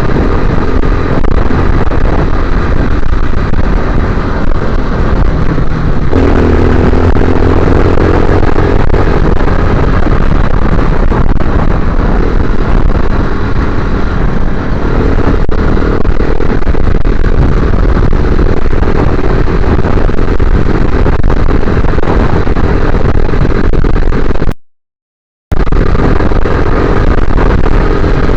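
Motorcycle engine running while riding, loud and continuous; its note rises about six seconds in as it revs up. The sound cuts out completely for about a second near the end.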